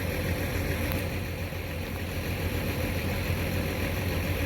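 Dodge Charger R/T's V8 engine idling steadily, a low even rumble.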